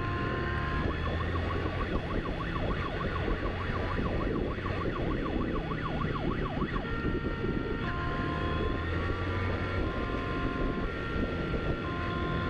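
Police siren from the chasing police motorcycle: a fast warbling yelp for about six seconds, then switching to a two-tone siren alternating high and low about once a second. Engine and road noise run underneath.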